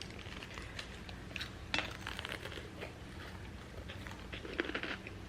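Chewing and eating sounds: scattered small clicks and crunches of people eating burgers and fries, with a faint low hum underneath.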